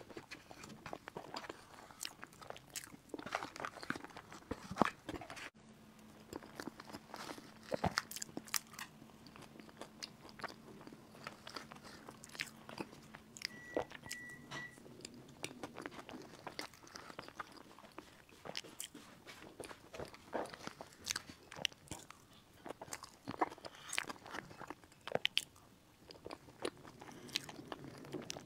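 Close-miked chewing of a cream cake with a chocolate cookie-crumb topping: a steady stream of short mouth clicks, smacks and crunches.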